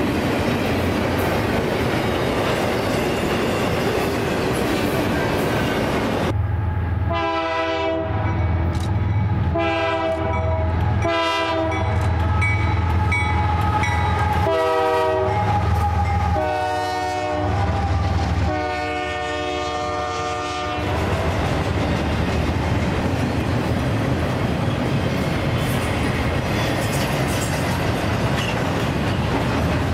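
Double-stack container train passing close by, its wheels rumbling and clicking over the rail joints. From about six seconds in to about twenty-one seconds, a multi-note train horn sounds a series of about seven blasts, the last one longest, over the deep running of mid-train GE diesel locomotives going by.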